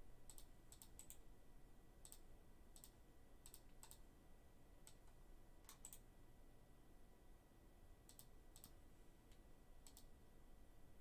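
Near silence with faint, scattered clicks, about one or two a second, irregularly spaced.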